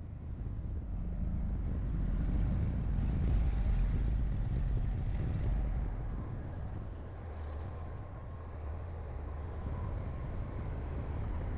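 Heavy diesel earthmoving machinery running, a low steady engine rumble. It grows louder about two seconds in, eases off after about six seconds, and builds again slightly near the end.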